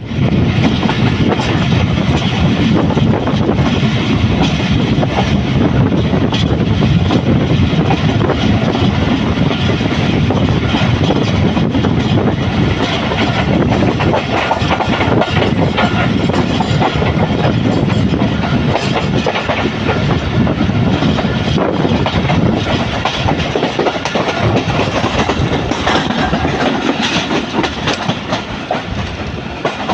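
Passenger train, led by a GEU40 diesel-electric locomotive, running past at speed: a steady rumble with wheels clacking over the rail joints, easing off a little near the end.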